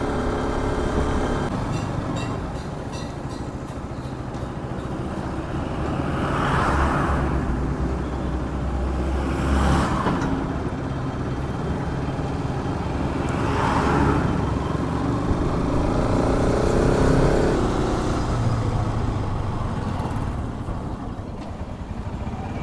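Bajaj Pulsar RS200 motorcycle under way in road traffic: its single-cylinder engine running steadily, with a few louder swells of noise.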